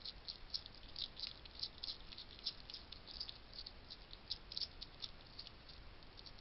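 Wild hedgehog crunching dry food at a feeding station: rapid, irregular crisp crunches and clicks, several a second, thinning out near the end.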